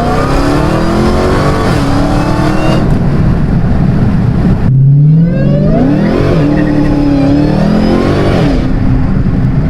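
Dodge Hellcat's supercharged 6.2-litre V8 on a full-throttle pull through an exhaust with its mid-pipe deleted. The pitch climbs steeply and drops at each upshift. The sound breaks off abruptly about halfway through, another climbing run follows with more shifts, and near the end it settles to a steady lower drone.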